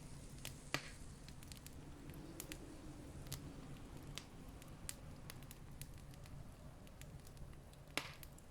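Campfire crackling faintly, with scattered small snaps and two louder pops, one near the start and one near the end, over a steady low rumble.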